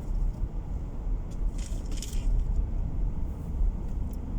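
Car driving on the road, heard from inside the cabin: a steady low rumble of engine and tyres, with a short hiss about one and a half to two seconds in.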